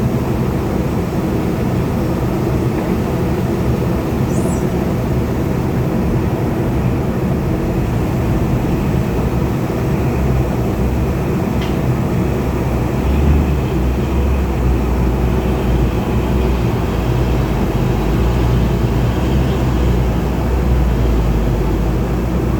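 Heavy diesel engine running steadily with a deep rumble that grows stronger about halfway through.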